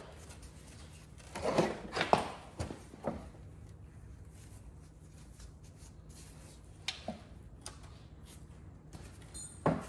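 Scattered metallic clicks and clunks of hands and tools working on a partly assembled engine, a cluster of them a second or two in and a couple more later, over a steady low hum.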